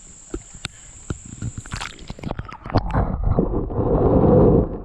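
Creek water sloshing and gurgling as a largemouth bass is released underwater, heard through a submerged camera: scattered taps in the first two seconds, then a louder muffled rushing gurgle from about three seconds in that stops just before the end.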